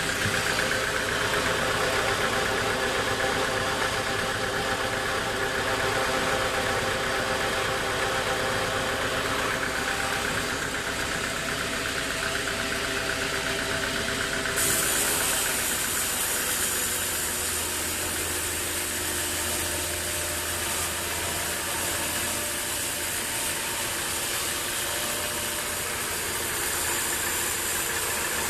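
Sawmill machinery running steadily: several steady tones over a hiss. About halfway through the sound changes, with the hiss growing brighter and the tones shifting.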